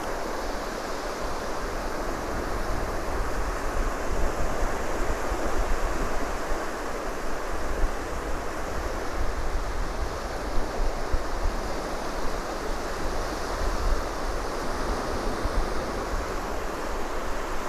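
Gulf of Mexico surf washing steadily on a sand beach, with wind gusting on the microphone in a low, fluttering rumble.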